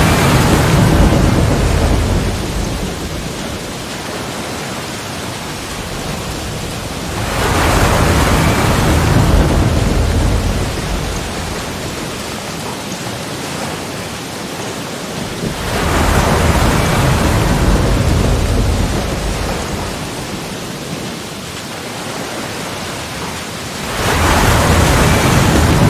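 Sea waves breaking and washing back, in four surges about eight seconds apart that swell up and slowly fade between them.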